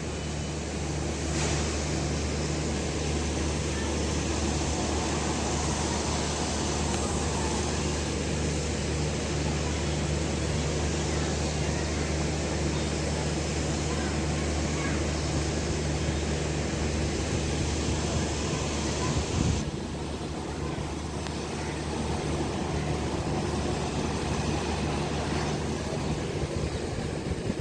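Steady rumble and hiss of a train, with a low humming tone underneath; the hiss thins about twenty seconds in.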